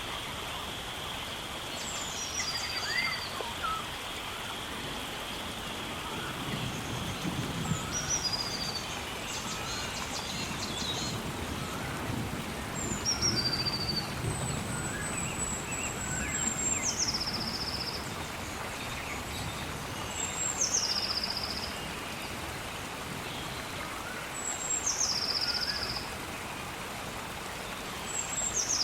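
Rainforest ambience: a steady hiss like rain, with a bird repeatedly giving a high call that drops sharply in pitch and then holds, about every four seconds. A steady high whine fades out over the first ten seconds, and soft low rumbles come and go twice.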